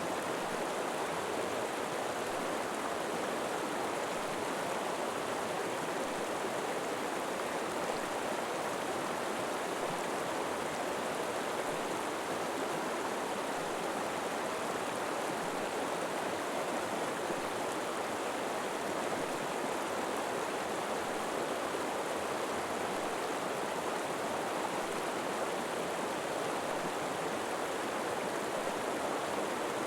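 River flowing, a steady, even rush of water.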